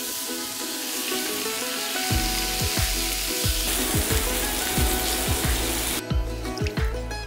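Chicken breasts sizzling as they sear in a skillet, a dense steady hiss that cuts off about six seconds in. Background music with a beat plays over it, its low drum strokes coming in about two seconds in.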